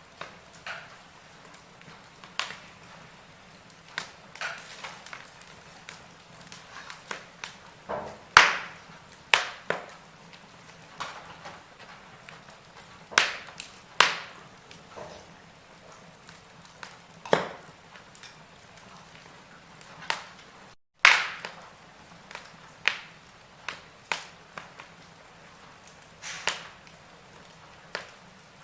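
Wood fire burning in a fireplace, crackling with irregular sharp pops, a few of them loud, over a faint steady hiss.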